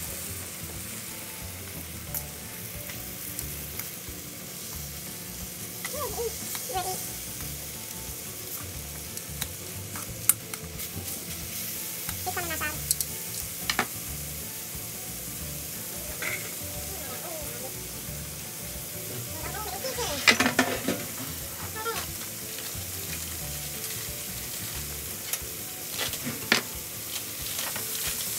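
Chicken strips and minced garlic sizzling in oil in a wok, with a utensil stirring, scraping and knocking against the pan now and then; the loudest scrape and clatter comes about two-thirds of the way in.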